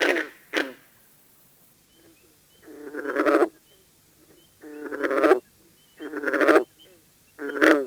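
A frog calling over and over: a string of short pulsed calls, each under a second long and swelling in loudness, about every one and a half seconds, with faint high chirps behind them.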